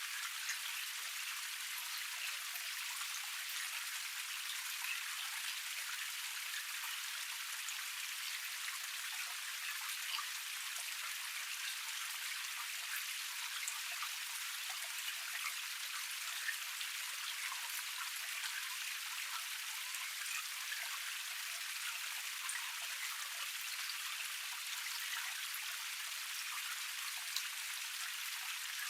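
A small cascade's water splashing steadily down a rock tier. It makes a dense, even patter of drops with occasional sharper splashes, and it sounds thin and hissy, with no low rumble.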